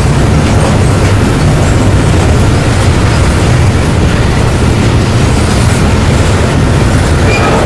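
A train rolling past close by: a steady, loud rumble that does not let up.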